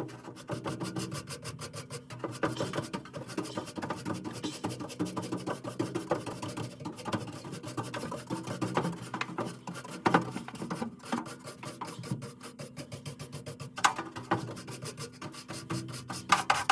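Rapid, repeated scraping strokes from hand work on the furnace's blower assembly, running on with a few louder strokes about ten seconds in and again near the end.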